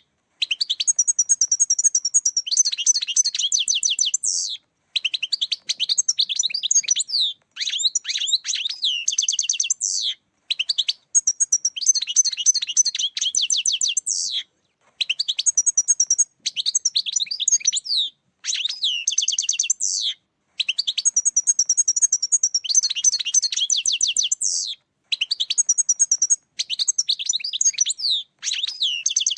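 European goldfinch song: high, fast twittering and tinkling phrases of one to four seconds each, repeated with short pauses between them.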